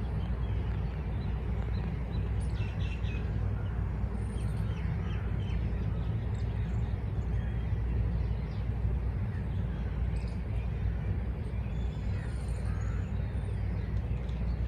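Birds chirping faintly and intermittently in short high calls over a steady low rumble.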